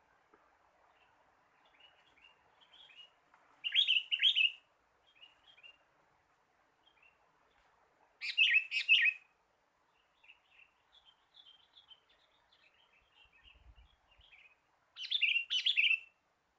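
Sooty-headed bulbul (kutilang) calling: three loud phrases of two or three quick notes, each about a second long, a few seconds apart, with softer short chirps between them.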